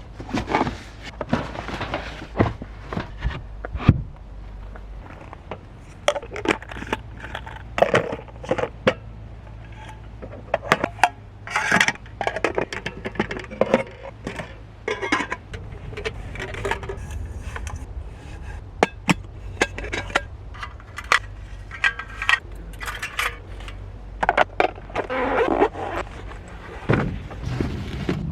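Hard objects being handled and set down: scattered clinks and knocks with rustling in between.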